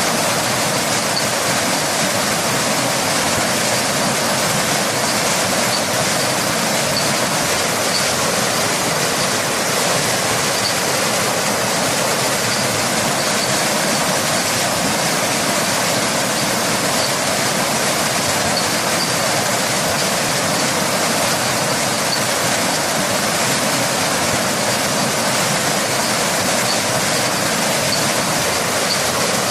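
Waterfall and rain: a steady, even rush of falling water that never lets up.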